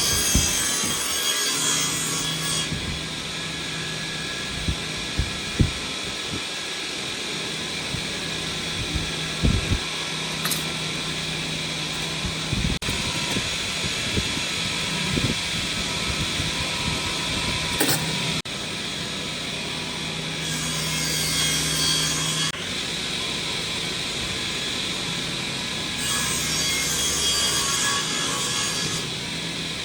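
A power tool working wood, with a steady low motor hum under a rasping noise. There are louder, hissier stretches at the start, about two-thirds of the way in, and near the end.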